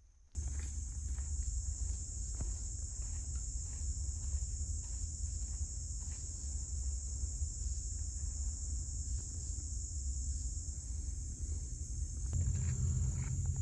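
A steady high-pitched insect chorus over a low rumble, with faint scattered ticks; a low hum joins near the end.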